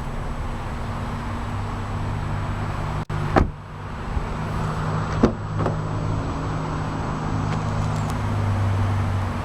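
2013 Nissan Sentra SR's 1.8-litre four-cylinder engine idling steadily, with two sharp thumps about three and a half and five seconds in.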